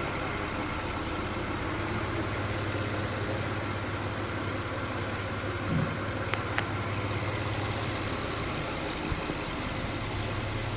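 Toyota Camry V6 engine idling steadily, with two sharp ticks a little past the middle.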